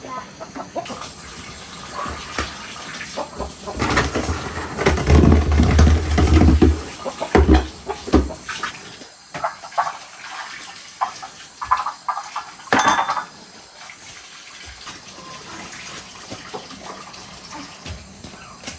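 Water running and splashing, with a low rumble about four to eight seconds in and a few sharp knocks near the middle.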